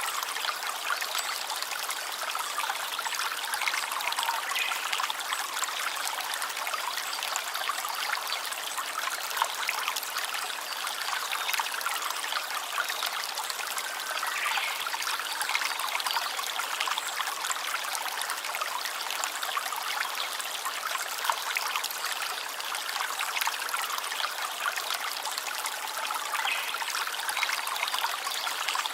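A small stream trickling and babbling steadily over stones.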